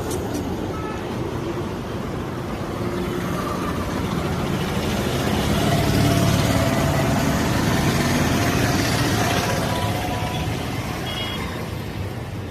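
A motor vehicle passing on a road: a steady engine and tyre noise that swells for several seconds, is loudest about halfway through, then fades.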